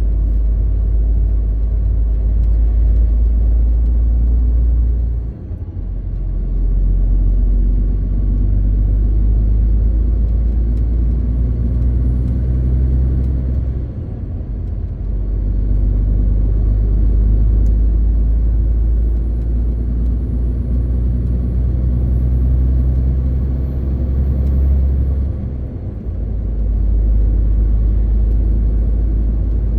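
MAN TGX 18.520 truck's six-cylinder diesel engine running steadily on the road as a low rumble. The level dips briefly three times, about five, fourteen and twenty-six seconds in.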